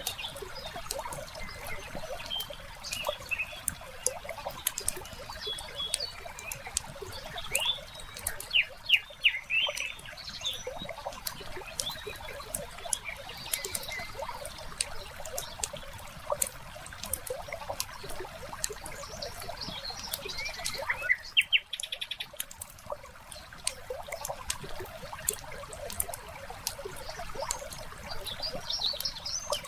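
Wood fire crackling in a fireplace with many small sharp pops, while birds chirp in short runs now and then, loudest about a third of the way in, about two thirds in and near the end.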